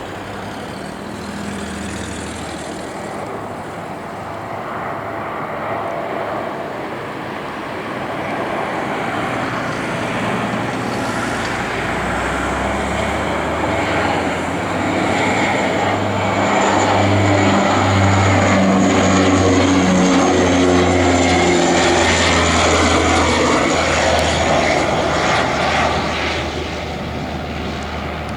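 Cargo aircraft engines passing by, growing louder to a peak past the middle and then easing off. A high turbine whine slowly drops in pitch as the aircraft goes past, over a low engine drone.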